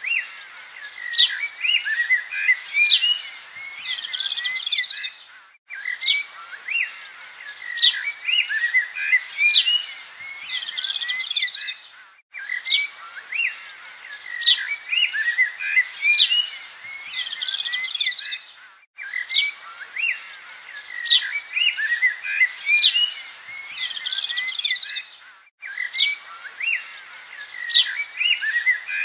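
Recorded birdsong: several birds chirping and whistling in quick, overlapping calls. The same stretch repeats about every six and a half seconds, with a brief dropout at each join, as a looped nature-sound track.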